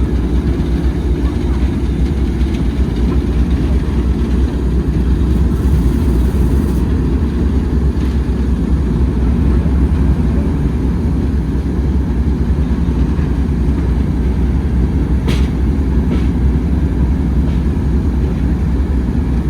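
Steady, heavy low rumble of a railway train running, with a few faint clicks about 8 and 15 seconds in.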